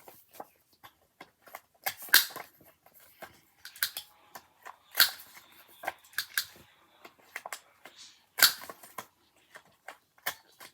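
Corner rounder punch clipping the corners of paper pieces: a sharp snap every few seconds, loudest about two, five and eight seconds in, with small clicks and paper rustling between.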